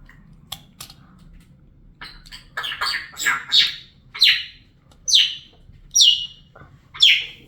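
Young African grey parrot calling: a few clicks, then a cluster of chattering chirps, then a run of short falling calls about once a second.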